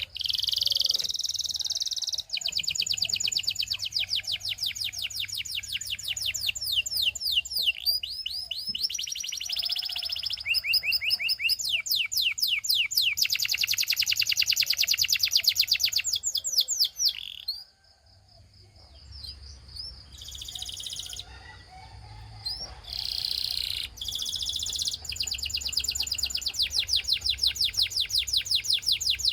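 Canary singing long, fast trills of rapidly repeated high notes, broken by a brief pause about 18 seconds in, softer for a few seconds after it, then trilling loudly again.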